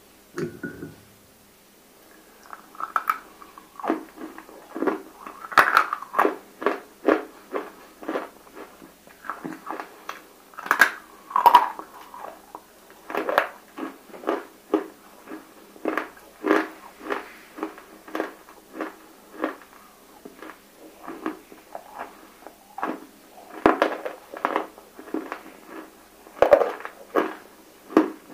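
Close-miked chewing and crunching of water-soaked roasted nakumatt (baked clay), a steady run of wet, crunchy bites at about two a second.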